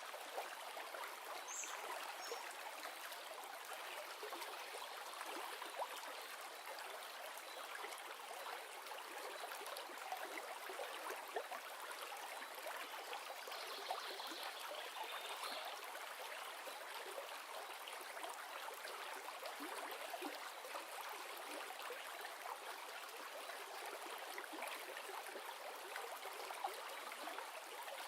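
River water flowing steadily: an even, unbroken rush and trickle that sits mostly in the middle and high range, with little deep rumble.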